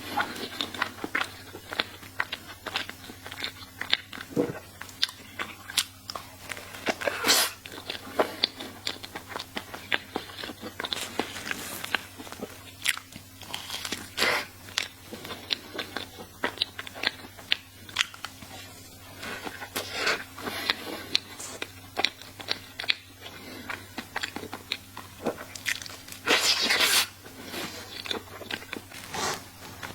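Close-miked eating of a chocolate crepe cake: bites and chewing with many short wet mouth clicks, and a few louder crunchy bites along the way.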